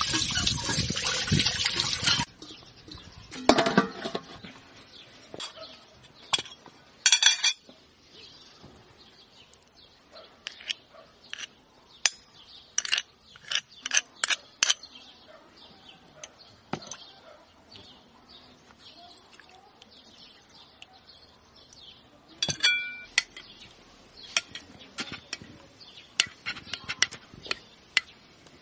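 Water pouring for about two seconds, then many scattered clinks and knocks of kitchen utensils and dishes, a few in quick runs.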